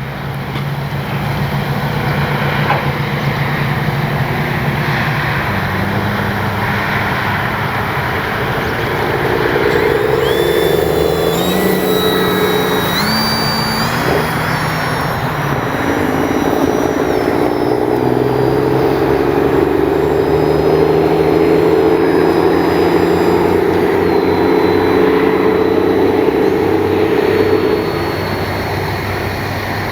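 Electric brushless motor and propeller of an E-flite Piper Cherokee 1.3 m RC plane in flight, its pitch shifting with the throttle. About a third of the way in, a high whine climbs in steps and then settles.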